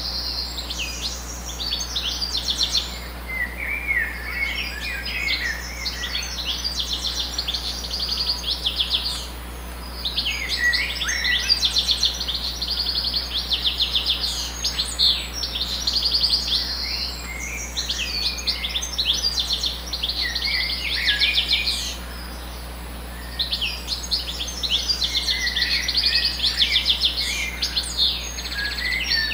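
Songbirds singing: rapid high trills and twittering chirps in overlapping bouts, with brief lulls about a third of the way in and again about three quarters through.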